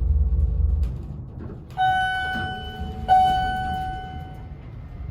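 Elevator cab's low travel rumble dying away as the car stops, then the arrival chime dinging twice at the same pitch, each ding ringing and fading.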